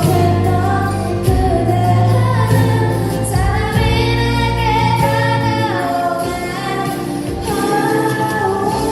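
Female voices singing a melody with vibrato over a sustained instrumental accompaniment, moving higher in pitch around the middle.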